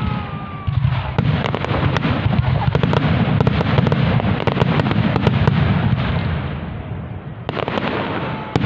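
Aerial fireworks display in a dense barrage: rapid overlapping bangs and crackles over a continuous deep rumble of booms. It eases briefly about seven seconds in, then picks up again with more sharp cracks.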